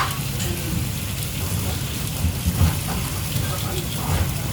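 Food sizzling steadily as it fries in a pan, with a few dull knocks from stirring.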